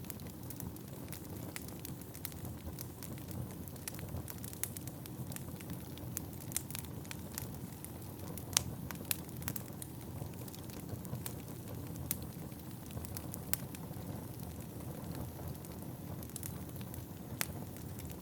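Wood fire burning in a fireplace: a steady low rumble of flames with irregular sharp crackles and pops from the burning logs, one louder pop about eight and a half seconds in.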